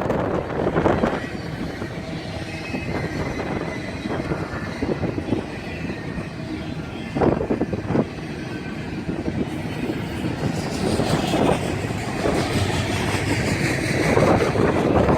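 A BNSF train rolling past, its wheels running on the rails with a steady rumble and a few sharp clacks about halfway through, growing louder again near the end.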